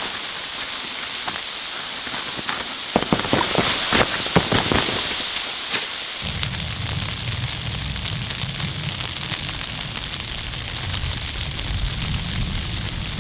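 Burning firewood crackling, with a cluster of sharp pops about three to five seconds in, over a steady hiss. A low rumble sets in abruptly about six seconds in.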